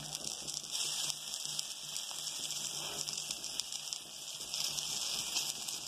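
Oil sizzling steadily around an egg-and-Maggi-noodle omelette frying on a flat griddle (tawa).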